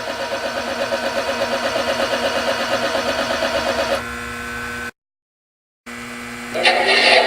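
Electric mechanism of an operating model-train layout accessory running with a steady hum and a rapid, even pulsing. The sound drops out completely for about a second past the middle, then returns louder and busier near the end.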